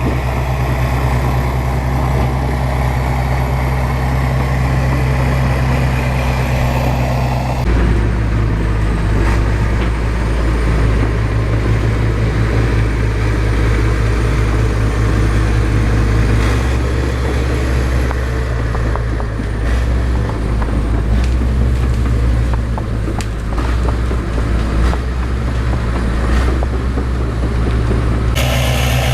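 Bulldozer's heavy diesel engine running with a steady low drone, its tone changing abruptly about eight seconds in and again near the end, with occasional brief knocks.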